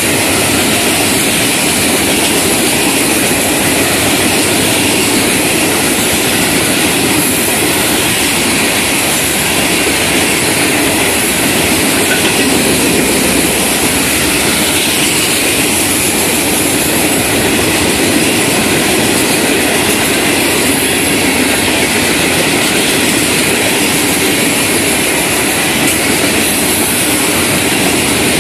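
Florida East Coast Railway freight train of steel hopper cars rolling past close by: a steady, loud noise of steel wheels running on the rails.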